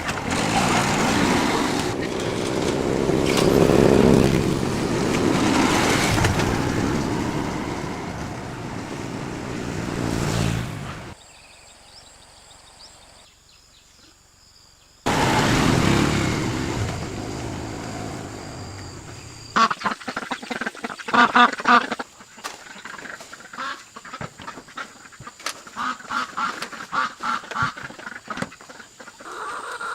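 Loud, even noise for the first third, a short quiet break, then from about two-thirds in a run of short, rapid, harsh poultry calls, like ducks quacking, repeated over and over.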